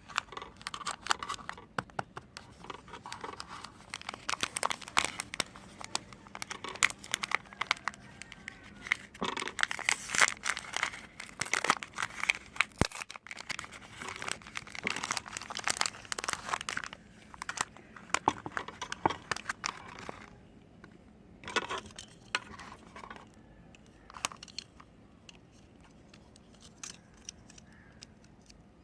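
Close-up crinkling and tearing of soap packaging as bars are unwrapped and handled: dense crackling for most of the stretch, thinning to a few scattered crinkles near the end.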